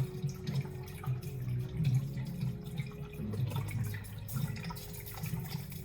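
Liquid running and dripping into a container as a drink is mixed, over a low murmur and a faint steady hum.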